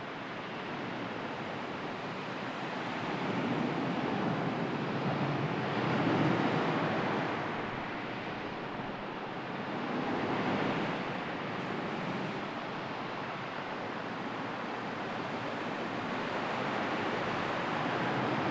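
Sea waves washing in, a steady rush that swells twice, about four seconds in and again about ten seconds in.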